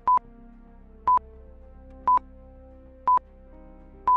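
Countdown timer beeping once a second: five short, high electronic beeps over quiet background music.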